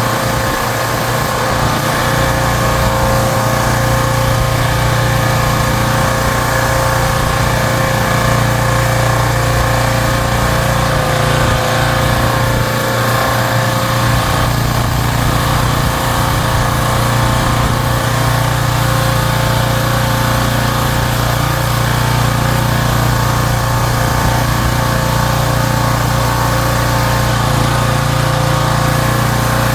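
Pressure washer running steadily: a continuous motor-driven hum under the hiss of the spray as a lawn mower is washed.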